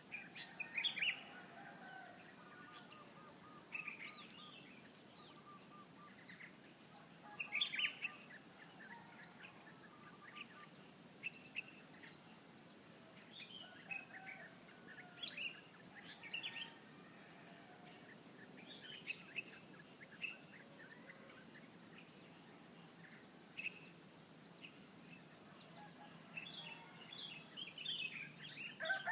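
Small birds chirping and trilling in short, scattered calls over a steady high-pitched background hiss; right at the end a rooster starts to crow.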